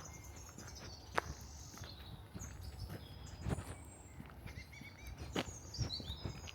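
Footsteps of a person walking on a path, a few spaced steps, while small songbirds chirp and sing in short high notes, with a quick run of notes stepping down in pitch near the end.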